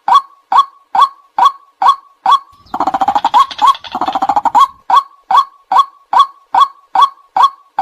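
White-breasted waterhen calling: a recorded lure call of short, loud "kwak" notes repeated a bit more than twice a second. About three seconds in, the notes break into two seconds of fast chattering, then the steady calls resume.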